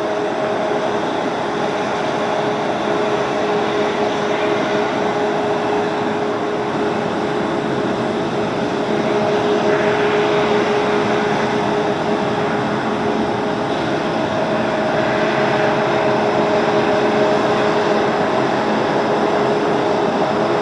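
Boeing 737 jet engines running steadily at low power, a continuous roar with a steady hum held through it.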